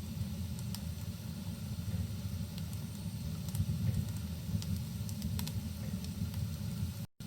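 Fireplace fire crackling with scattered sharp pops over a steady low rumble, as in a rain-and-fireplace ambience. The sound cuts out for an instant near the end.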